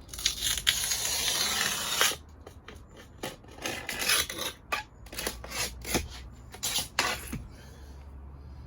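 Glass cutter's wheel scoring a pane of glass: one continuous scratchy stroke of about two seconds, then a series of shorter scratches.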